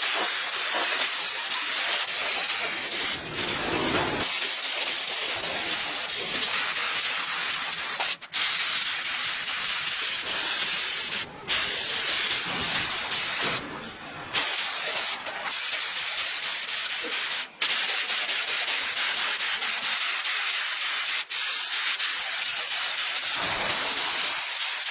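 A loud, steady hissing spray, cut off by several brief gaps.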